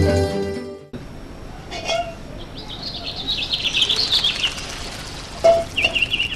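Plucked-string film music ending in the first second, then birds chirping in quick twittering runs, with a single short knock about five and a half seconds in.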